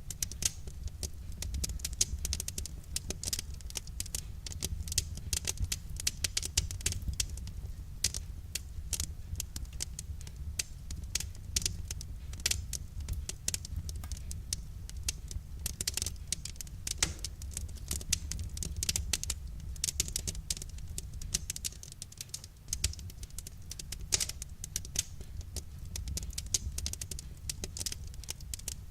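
Wood fire crackling: a dense, irregular run of small pops and snaps over a steady low rumble.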